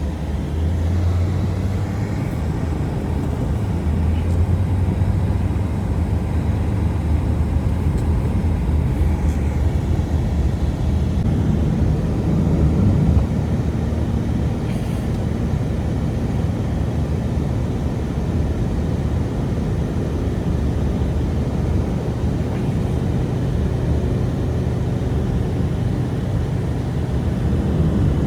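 Strong blizzard wind, a steady, loud, low rumble.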